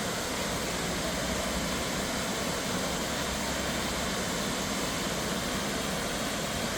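Steady roar of a 20-foot waterfall cascading through a narrow rock gorge, an even rushing noise without a break.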